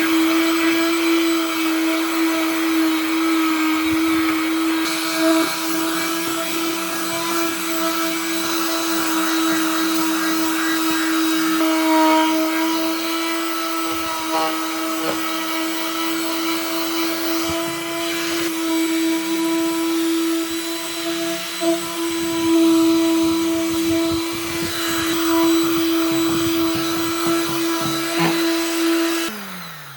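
Electric power tool motor running at a steady speed with a constant hum. Near the end it is switched off and winds down, its pitch falling away.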